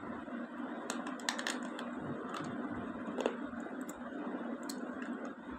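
Crunching and chewing of a water-soaked slate pencil: a few sharp, crisp cracks, bunched about a second in and then single ones spaced a second or so apart, over quieter chewing.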